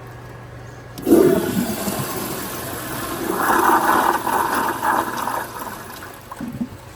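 1978 American Standard Glenco wall-hung toilet flushing: the rush of water starts suddenly about a second in, is loudest in the middle and tapers off near the end as the tank empties.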